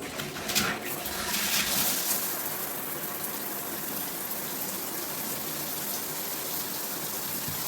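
Water spraying steadily from a handheld shower head, an even hiss, with a knock or two in the first second.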